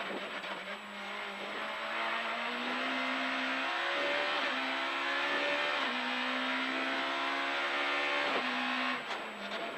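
Suzuki rally car's engine at full throttle heard from inside the cabin, its pitch climbing through the gears and dropping at upshifts about four and six seconds in, then easing off about a second before the end as the car slows for a chicane.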